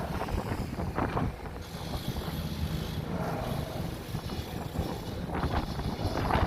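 Excavator-mounted vibratory pile driver working steel sheet piling: a heavy, steady low rumble from the engine and vibrating hammer. Wind buffets the microphone throughout.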